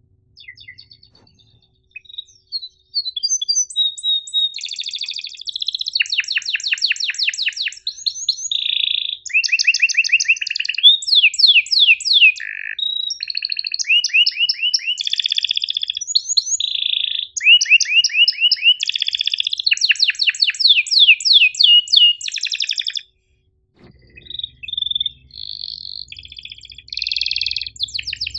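Domestic canary singing a long, loud song of fast trills and rolls, sharp repeated chirps and held notes. It pauses briefly about three-quarters of the way through, then resumes over a low steady hum.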